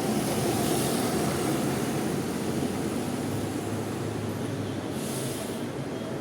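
Diesel bus engine running steadily, with two short hisses, about a second in and again near the end.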